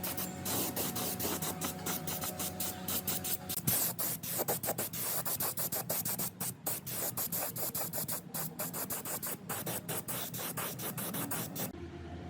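Rapid, irregular scrubbing strokes of hand abrasive work on a part, stopping shortly before the end.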